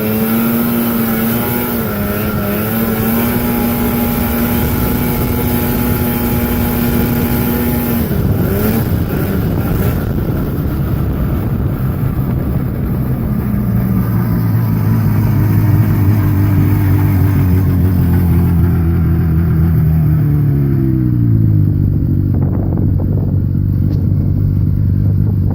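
1980 Ski-Doo Blizzard 5500 snowmobile's two-stroke engine running at steady high revs. About a third of the way in the pitch drops sharply as the throttle is eased. It runs lower for a while, then falls again near the end as the sled slows.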